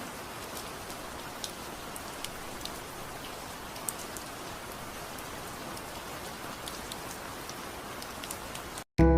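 Steady rain with scattered louder drop ticks, cutting off suddenly near the end.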